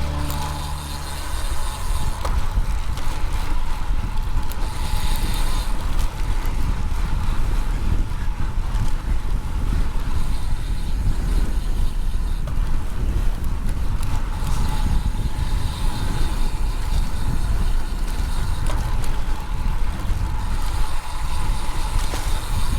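Strong wind buffeting the microphone of a camera on a moving bicycle: a loud, gusty rush with heavy low rumble.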